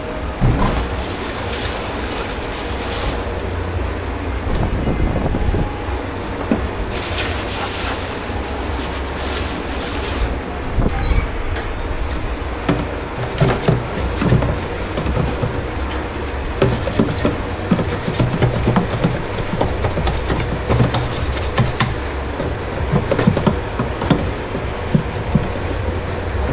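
Commercial dish pit at work: a steady low machine rumble throughout, two long bursts of rushing hiss in the first ten seconds, then repeated clatter of dishes and utensils being handled.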